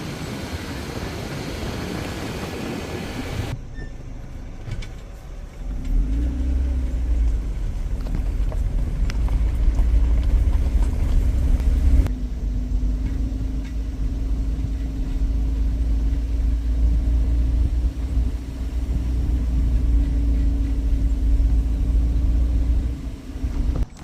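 A motor vehicle's engine running steadily, a deep rumble with a constant hum, starting about five seconds in after a short stretch of even hiss that cuts off abruptly.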